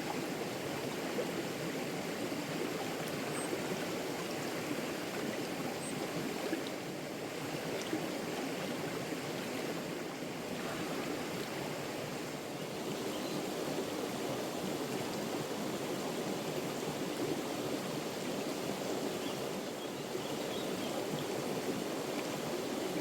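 A small, shallow brook flowing and babbling steadily over stones.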